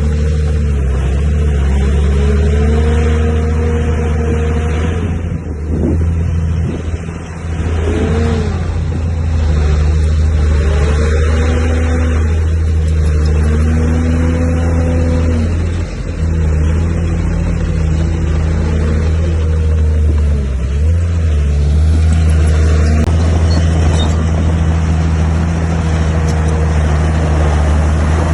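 Diesel engine of a Komatsu D31P crawler bulldozer working under load with a steady low drone. Its pitch rises and falls every few seconds as the load changes, dropping briefly about six seconds in and again near the middle.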